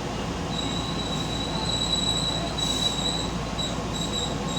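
Keihan local train running, its rumble heard from aboard, with the wheels squealing in a high steady tone that sets in about half a second in and turns intermittent near the end.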